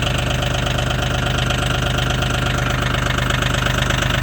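Mahindra 1635 tractor's three-cylinder diesel engine idling steadily with an even pulse, still cold shortly after a cold start in deep frost.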